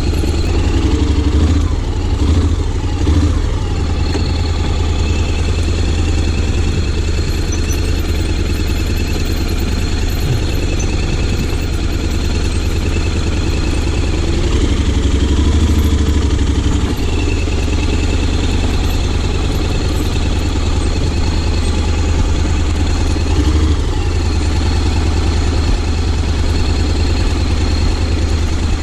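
Honda X-ADV 750's parallel-twin engine running at low revs, mostly steady, rising briefly a few times with the throttle.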